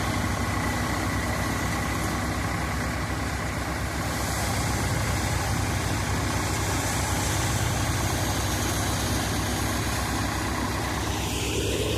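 Swaraj 855 FE tractor's diesel engine running at a steady speed, driving a Landforce thresher, with a shift in the machinery sound near the end.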